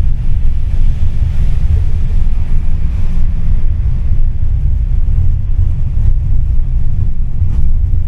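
Tram in motion, heard from inside the car: a loud, steady low rumble.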